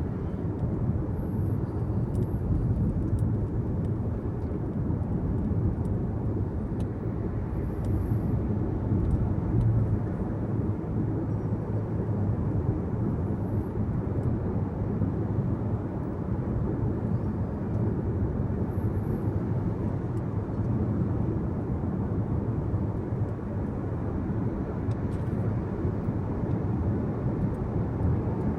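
Steady low rumble of a car driving at speed: tyre and road noise with engine hum, heard from inside the car's cabin.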